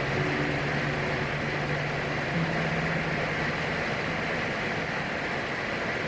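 Steady in-flight cabin noise of a PAC 750XL single-engine turboprop: an even rushing drone of engine, propeller and airflow, with a faint low hum that steps up slightly in pitch about two seconds in.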